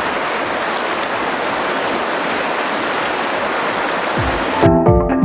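Penguin Creek's fast-flowing water rushing in a steady hiss. Music with a beat cuts in near the end and replaces it.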